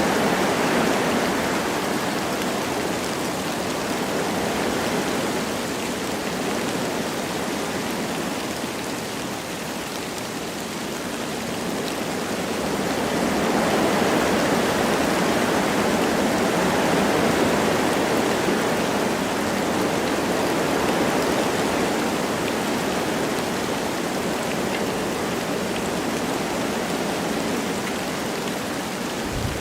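Wind rushing through forest trees with light rain falling, a steady hiss that eases off and then swells again about halfway through.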